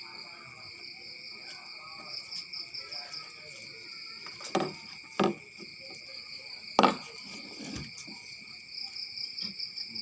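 Crickets chirping, a steady trill with a pulsing higher chirp over it. Three sharp knocks come about halfway through, the last the loudest.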